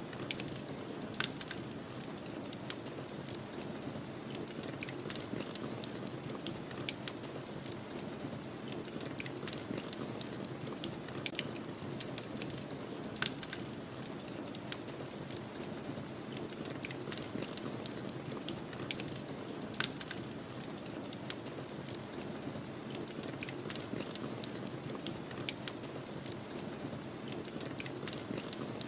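Wood fire crackling, with frequent irregular sharp pops and snaps over a steady low rush of snowstorm wind.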